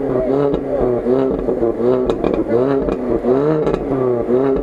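Lada Niva's engine revving up and down over and over, about twice a second, while the car sits stuck in deep mud: the driver is pumping the throttle to rock it free. A few short clanks come around the middle.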